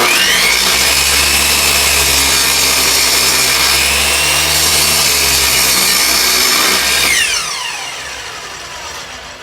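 Delta 10-inch compound miter saw switched on, its blade lowered partway into a board for a shallow cut; the motor runs loud and steady for about seven seconds, then is released and winds down with a falling whine.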